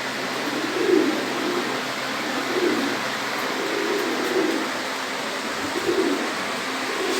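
Domestic fancy pigeons cooing, low coos repeating about once a second over a steady background hiss.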